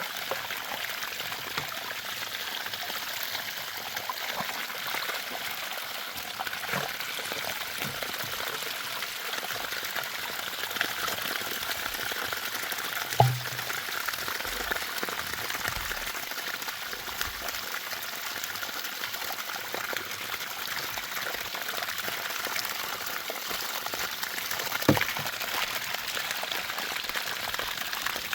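Water running steadily with an even rush, broken by two sharp knocks, one about halfway through and one near the end.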